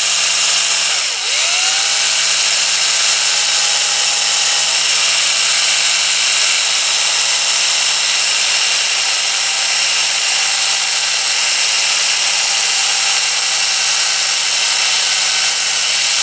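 Electric drill drilling a small hole through a polycarbonate plastic moulding, running at a steady pitch. About a second in it briefly slows and speeds up again.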